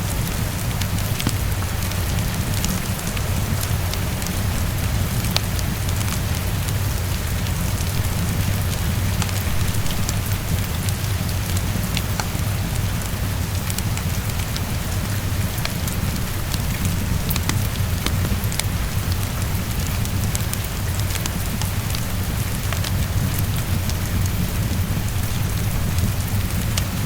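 Steady heavy rain pattering on a window, over a deep low rumble, with small scattered crackles from a wood fire.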